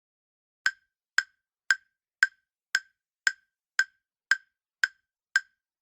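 Countdown-timer tick sound effect: ten short, sharp, evenly spaced ticks, about two a second, starting just under a second in.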